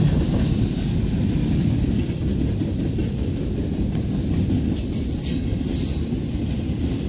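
Freight cars rolling past close by: a steady low rumble of steel wheels on the rails. A few short, high hissing sounds come in about four to six seconds in.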